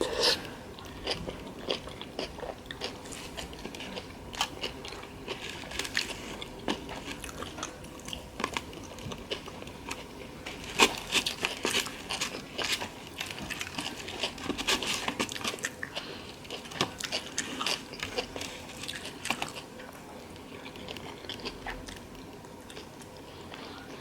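A person biting and chewing food close to the microphone, with many short crunchy, moist clicks. The sounds are densest in the middle and thin out near the end.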